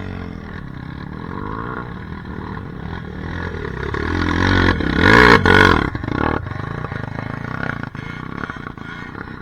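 Off-road dirt bike engine revving up and down on a trail, its revs climbing to a loud peak about five seconds in, with a few sharp knocks along the way.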